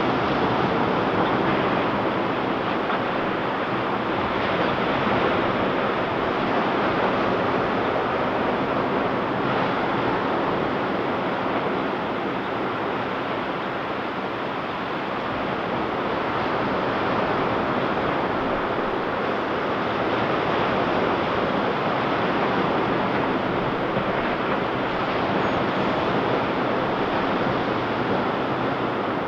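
Ocean surf: waves breaking and washing on the beach as a steady rushing hiss that swells and eases slightly, with no distinct crashes.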